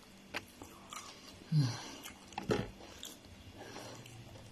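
A person chewing food with soft mouth noises and scattered small clicks and smacks, plus one brief low hum about one and a half seconds in.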